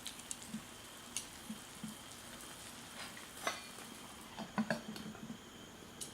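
Wood fire crackling in a small Firebox camp stove: irregular sharp pops and snaps over a soft hiss, with a cluster of louder cracks about three and a half to five seconds in.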